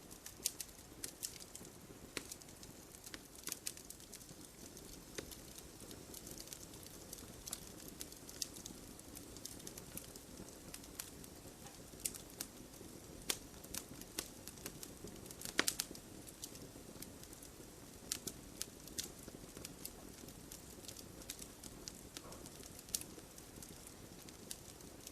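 Wood logs burning in a fireplace: a steady low rustle of flames with irregular sharp crackles and pops, a louder pop about two-thirds of the way in.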